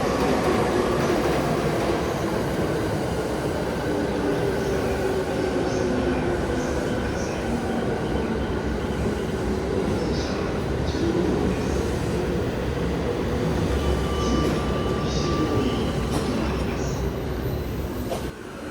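Electric commuter train moving along the platform, a steady loud rumble of wheels on rails with a faint shifting hum from the motors.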